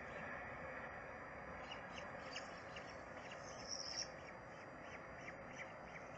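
Birds calling: a series of short, high chirps over a steady background hiss, with one brief, louder high call just before four seconds in.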